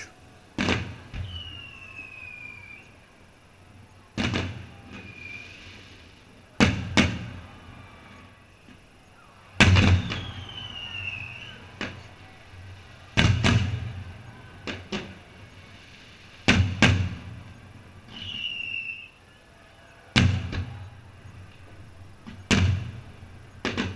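Fireworks shells bursting overhead: a sharp bang every two or three seconds, several in quick pairs, each followed by a low rumbling echo. A few short falling whistles sound between the bangs.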